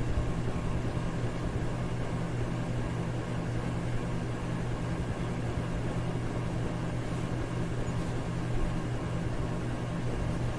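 Electric fan running steadily: a low motor hum under an even rush of air.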